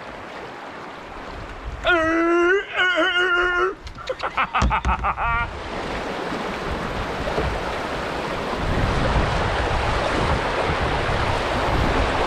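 Rushing river water with wind on the microphone, swelling from about six seconds in and holding steady. Before it comes a loud, high, held call with a wavering pitch, then a quick run of short pulses.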